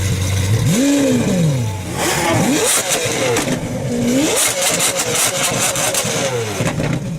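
Lamborghini Aventador V12 engine being revved in several quick blips, the pitch rising and falling each time. About halfway through comes a rapid run of sharp exhaust crackles and pops as the revs drop.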